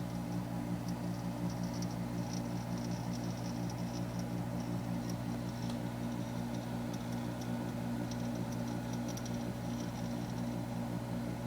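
Hitachi RD-200FN dehumidifier's compressor running with a steady hum, overlaid by bursts of rapid, light metallic ticking that come and go. The ticking is the abnormal 'da-da-da' metallic noise this five-day-old unit's compressor develops a few minutes after start-up.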